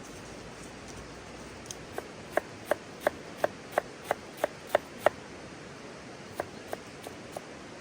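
Knife chopping on a wooden board: about ten even strokes at roughly three a second, then four lighter ones near the end, over a steady background hiss.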